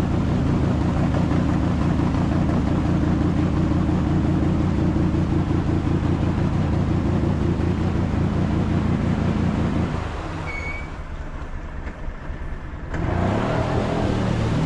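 Motor-vehicle engine running steadily. About ten seconds in it drops away for roughly three seconds, then picks up again with a rising note near the end.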